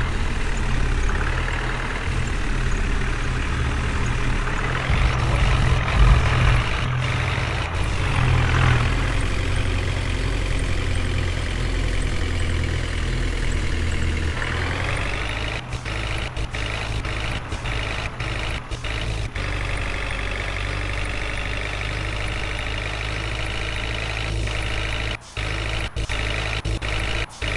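A heavy vehicle's diesel engine running steadily, rising in pitch about halfway through, with brief dropouts in the second half.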